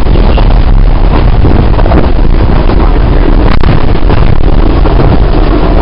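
Passenger train running, heard from inside the carriage at the window, with loud wind buffeting the microphone. There is one sharp click about three and a half seconds in.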